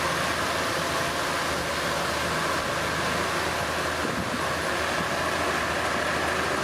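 Komatsu D31P bulldozer's diesel engine running steadily.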